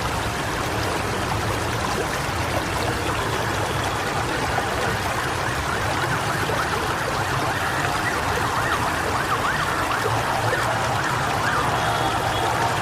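Storm noise: a steady rush of heavy rain and wind. From about eight seconds in, short high tones waver up and down over it, and a steadier high tone comes in near the end.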